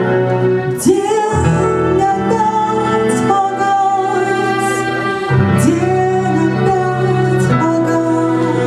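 A woman singing a song with long held notes over instrumental accompaniment.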